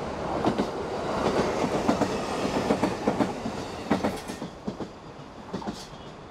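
Electric local train passing close by, its wheels clattering in quick clicks over the rail joints. The clatter is loudest about four seconds in, then fades as the train moves away.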